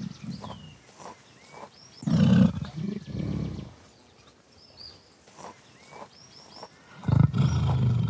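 A large animal's deep, pulsing calls, twice, about five seconds apart, with short high bird chirps in between.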